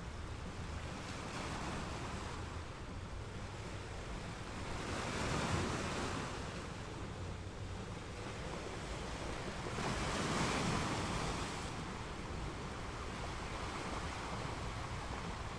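Sea waves washing in continuously, with two larger waves breaking and swelling louder about five and ten seconds in, over a steady low rumble.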